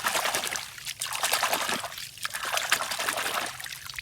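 Water trickling and splashing in uneven surges, coming and going about three times.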